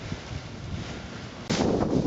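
Strong wind buffeting the microphone, a low rumble. About one and a half seconds in there is a sharp click, after which the wind noise is louder.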